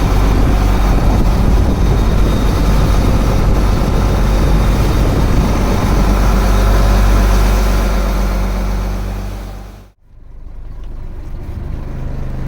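Fishing boat's engine running steadily with a low hum. About ten seconds in it fades out abruptly and comes back quieter.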